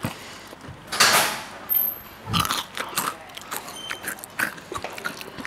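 Close-miked mouth sounds of snack eating into a clip-on microphone held at the mouth: a loud rush of noise about a second in, then chewing with many small clicks and wet smacks.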